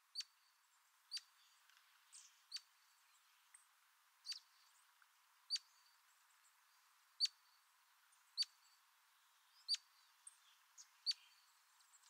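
A small bird's call: a sharp, quick downward chirp repeated about a dozen times at uneven gaps of roughly one to one and a half seconds, faint throughout.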